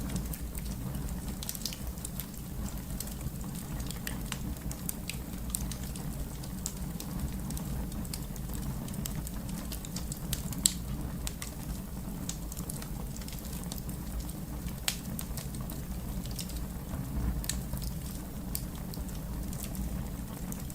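Wood fire crackling: irregular sharp pops and snaps over a steady low rumble of the flames, with one louder pop about halfway through.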